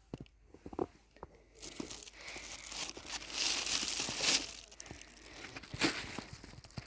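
Crinkling, crunching handling noise: a few sharp clicks, then a louder rustling hiss for about three seconds, then more scattered clicks.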